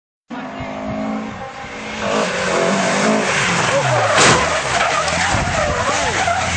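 Car engine running and tyres skidding and squealing, starting suddenly, with a brief loud burst of noise about four seconds in.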